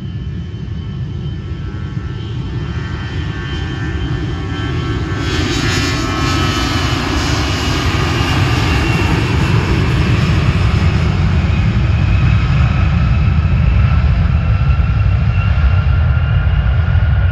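Jet airliner's engines roaring, growing steadily louder, with whining tones that slowly slide in pitch.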